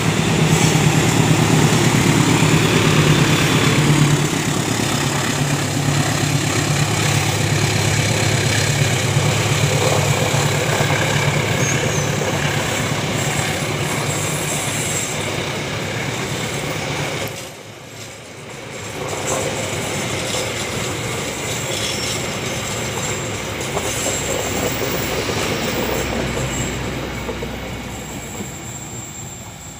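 KAI diesel-electric locomotive passing with its engine running, a strong low drone for the first several seconds. Then a line of passenger coaches rolls by with steady wheel-on-rail noise, which drops out briefly a little past halfway and fades near the end.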